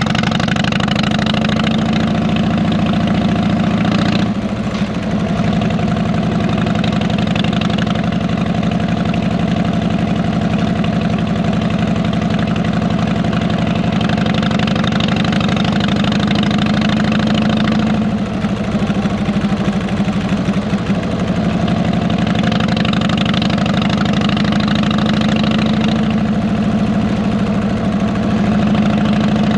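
Harley-Davidson V-twin motorcycle engine running steadily through fishtail mufflers, with brief dips in the engine note about four seconds in and again around eighteen to twenty-one seconds in.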